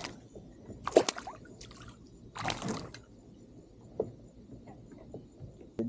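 Water splashing and dripping as a hooked fish is reeled in and landed beside a kayak: a short sharp splash about a second in, a longer splash midway, then a few small drips.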